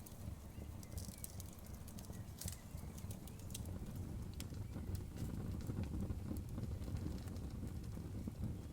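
Campfire crackling, with irregular sharp pops and snaps, most of them in the first few seconds. Under it runs the steady low rush of a river.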